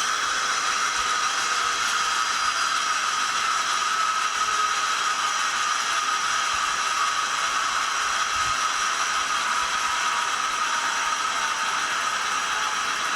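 The DCC sound decoder in an SDS Models NR class model locomotive playing its diesel engine sound through the small onboard speaker: a steady running sound with almost no bass.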